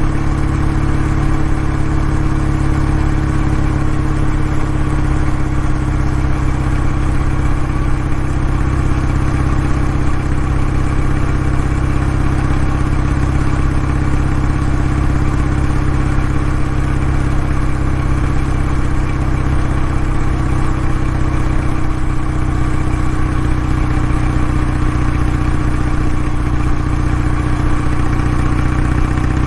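Kawasaki W650's air-cooled parallel-twin engine and exhaust running steadily at an even speed, with no revving.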